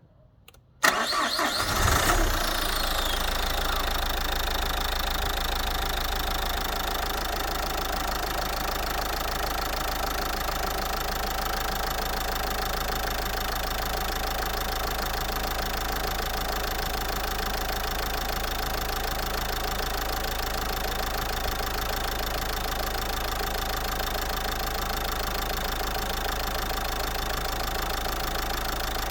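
Renault 1.5 dCi four-cylinder turbodiesel with 302,000 km on it starting about a second in, flaring up briefly, then settling into a steady idle.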